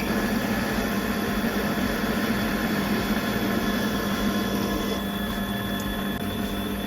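An electric power tool's motor running steadily with a constant hum, without starting, stopping or changing speed.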